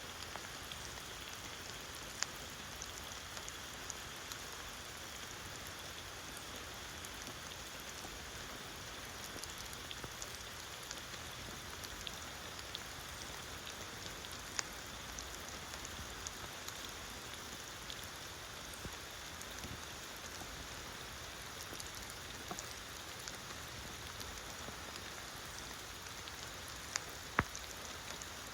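Steady rainfall hissing on the rainforest floor, with a few sharper drop hits standing out now and then, two of them close together near the end.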